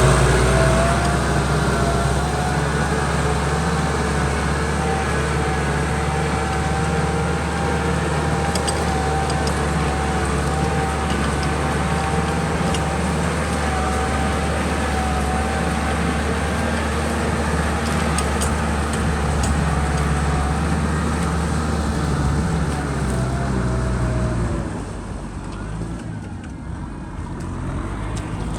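Kubota M6040 tractor's diesel engine running steadily, as when plowing a muddy paddy. About 24 seconds in it drops quieter for a few seconds, then picks up again near the end.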